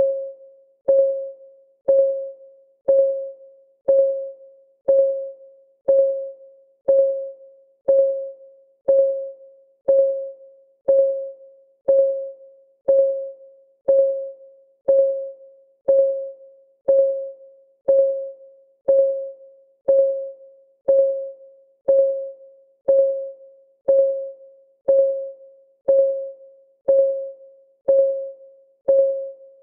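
Timer's clock ticking sound, steady at one tick a second: each tick is a short click with a brief ringing tone that dies away quickly.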